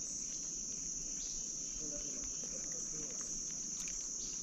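Steady, high-pitched chorus of insects trilling without a break, cricket-like.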